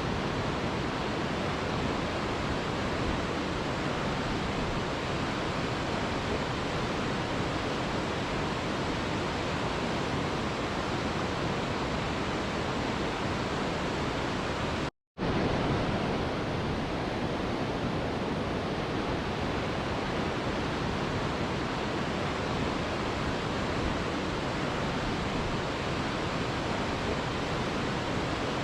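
Mountain river flowing, a steady even rush of water. A split-second gap of silence breaks it about halfway through.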